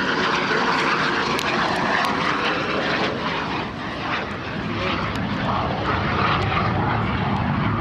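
MiG-17 fighter's centrifugal-flow turbojet engine running as the jet flies its display, a steady rushing jet noise that dips briefly a little after halfway and then builds again.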